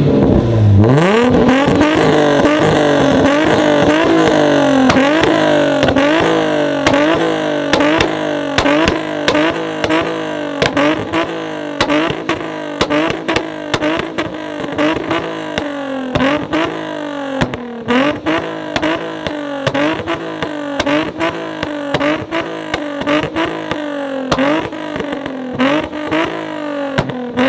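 Modified car engine held on a two-step rev limiter: it revs up in the first second, then bounces against the limiter, its pitch dipping and climbing again about once a second, with rapid popping bangs from the exhaust throughout.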